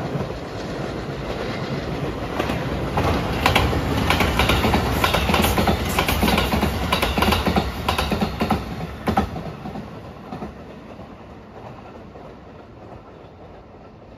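The Rapid Marine Liner electric train passing at speed, its wheels clacking over the rail joints. The noise builds, is loudest through the middle, then fades away as the train goes by.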